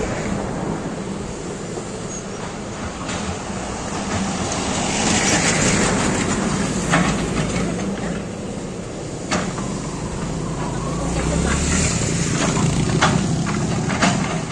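Backhoe excavator engine running and working, its hum rising twice as it comes under load, with several sharp metallic clanks from the machine.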